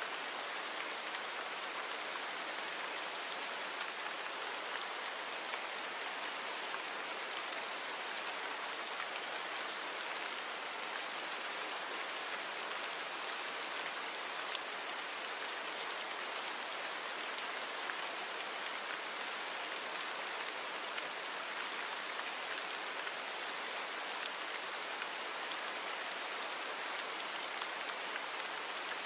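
Steady rain falling, an even hiss of drops on a surface with faint individual drop ticks, noise-reduced.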